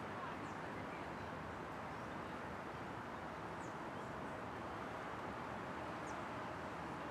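Steady outdoor ambience, an even background hiss, with a few faint, short high chirps about every two and a half seconds.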